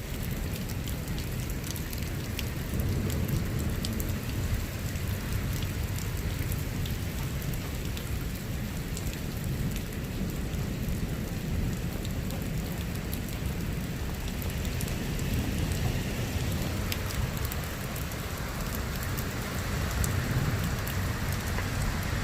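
Steady rain falling in a thunderstorm, with scattered sharp drop ticks over a continuous low rumble.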